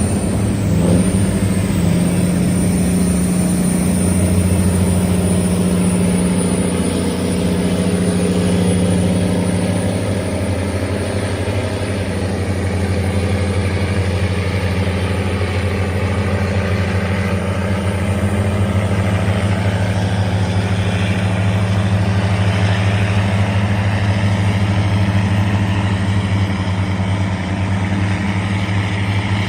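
Tugboat's engine running steadily while towing a cargo barge, a deep, even drone that holds for the whole stretch.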